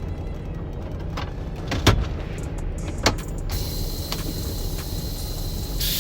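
Semi truck's diesel engine idling with a steady low hum, with two sharp knocks about two and three seconds in. Past halfway a steady hiss comes in, and a short, louder hiss sounds near the end.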